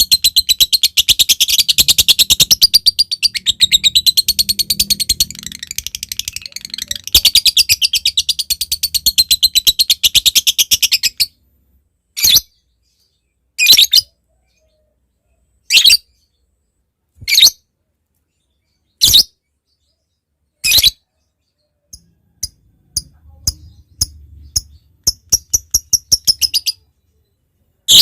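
A lovebird singing its long, rapid chattering song ("ngekek") for about eleven seconds. Then come single shrill calls every second or two, and near the end quick short ticking notes ("ngetik").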